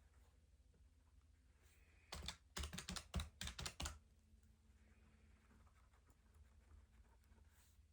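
A quick run of about ten key presses tapped out in under two seconds, the rest near silence.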